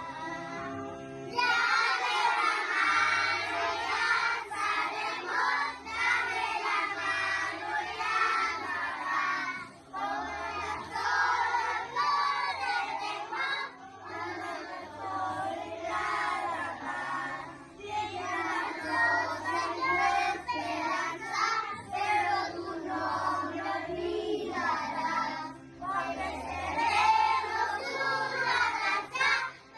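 A kindergarten class singing together over a recorded musical accompaniment with a low bass line. The children's voices come in about a second and a half in, after a short instrumental lead-in.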